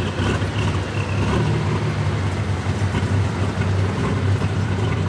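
Super stock pulling tractor's engine running loud and steady at high revs.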